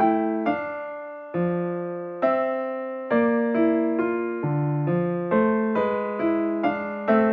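Background music: a piano or electric piano playing chords, struck notes that fade after each strike.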